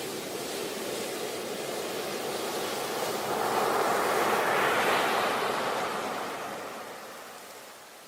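Sea waves breaking on a beach: the surf swells to a peak about five seconds in, then washes back and dies away near the end.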